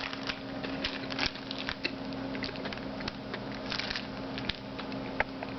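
A person chewing a marshmallow Peep close to the microphone: irregular mouth clicks and smacks, over a steady low hum.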